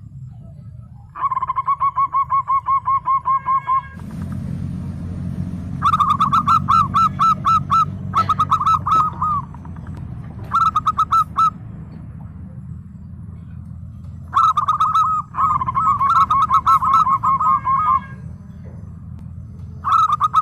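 Zebra dove (perkutut) cooing: several phrases of quick, rolling staccato notes, each a few seconds long with short pauses between them. A steady low hum runs underneath.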